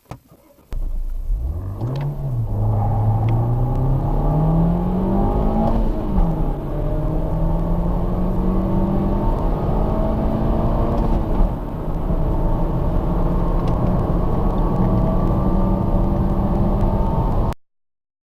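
A car engine accelerating hard from a standstill. Its pitch climbs, drops at a gear change about two seconds in, climbs again, drops at a second shift about six seconds in, then rises slowly and steadily until it cuts off abruptly near the end.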